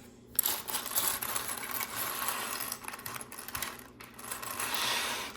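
Lots of small plastic LEGO pieces rattling and clicking against each other and the table as they are tipped out and spread by hand. It is a dense, continuous patter that starts suddenly about half a second in and eases briefly before picking up again.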